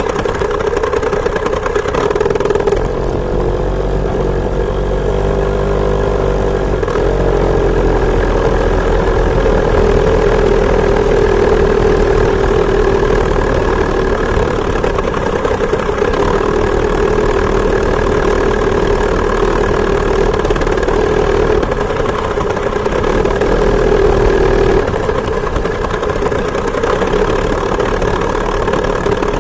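Two-stroke chainsaw engine driving a homemade moped, running steadily under way; its pitch wavers a few seconds in, then holds even.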